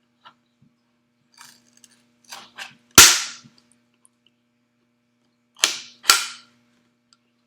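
Plastic bottle being cut for feed holes: a few light clicks, then a loud sharp crack about three seconds in and a quick pair of cracks near the end, with a faint steady hum underneath.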